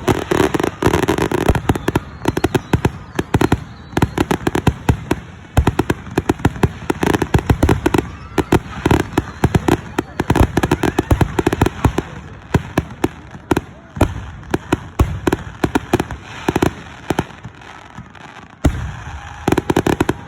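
Fireworks going off in a rapid barrage, several bangs a second with crackling in between. This is the display's finale, thinning out near the end.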